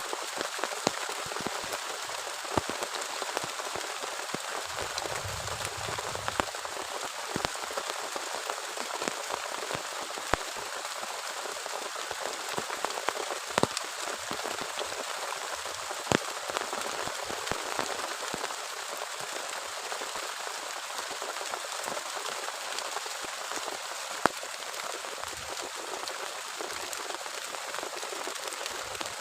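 Heavy rain falling steadily, with individual drops striking close by as sharp taps. A brief low rumble comes about five seconds in.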